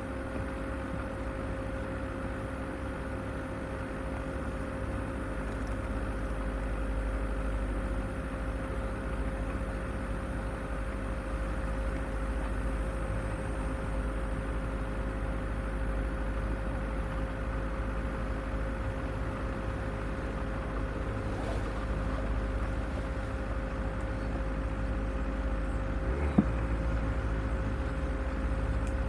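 Off-road vehicle's engine running steadily at low revs, with one sharp knock near the end.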